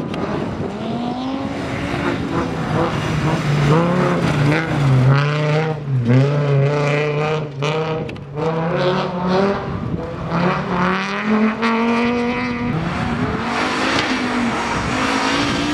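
Rally car engine driven hard on a gravel stage, its pitch climbing and falling again and again with gear changes and throttle lifts, over a steady noisy hiss.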